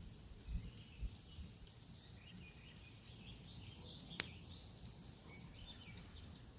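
Campfire crackling faintly with scattered sharp pops, the loudest about four seconds in, while small birds chirp softly in the background.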